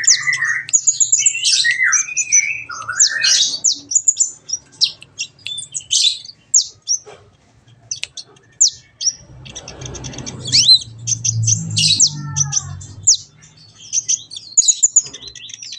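Kolibri ninja sunbird song: a rapid run of high, thin chirps and twitters with short pauses, and a faint low hum in the middle.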